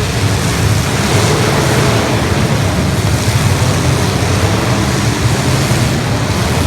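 Many demolition derby cars running together in the arena, their unmuffled engines making a loud, dense, steady low rumble.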